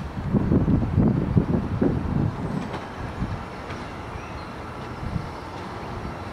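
Tyne and Wear Metro battery locomotives hauling a Metrocar slowly over depot track: a low rumble of the train rolling on the rails, uneven and louder in the first couple of seconds, then steadier.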